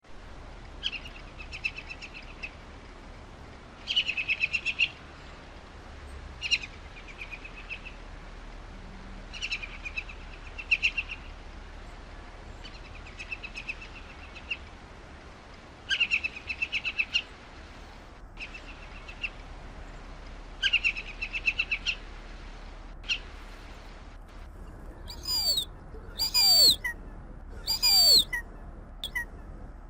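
Hen harrier calling: repeated bursts of a fast, chattering series of notes, each lasting about a second and coming every two or three seconds. Near the end come louder, higher-pitched calls.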